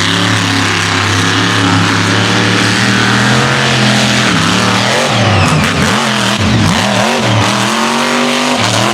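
Mega truck's big engine running loud at high revs. It holds steady for about four seconds, then dips in pitch and climbs back several times as the throttle is let off and opened again.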